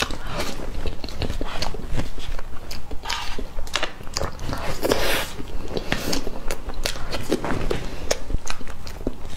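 Close-miked chewing and mouth sounds of a person eating soft cream sponge cake from a spoon, a dense run of short clicks.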